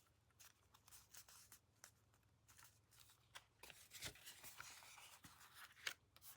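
Near silence with faint rustles and light taps of paper and cardstock being handled and pressed, a little busier in the second half.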